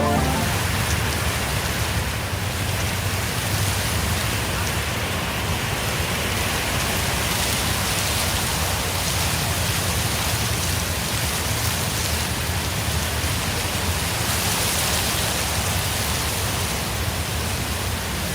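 Steady rainfall, an even hiss that holds at the same level throughout, with a low steady rumble underneath.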